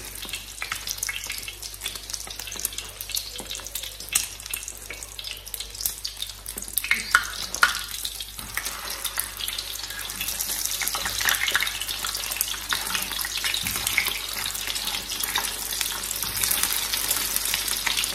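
Egg-coated shami kebabs shallow-frying in oil on a tawa: steady sizzling with dense crackling and spitting, growing louder and fuller about ten seconds in.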